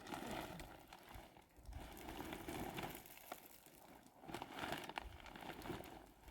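Plastic sheeting crinkling and rustling as it is handled, with scattered small crackles.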